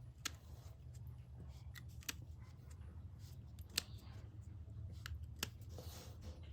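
Irregular sharp clicks and light taps, about one a second, from small handwork, over a steady low hum.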